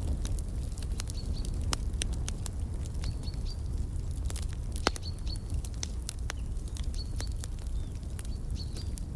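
Wood fire crackling with irregular sharp pops over a low steady rumble. Short high bird chirps recur every second or two.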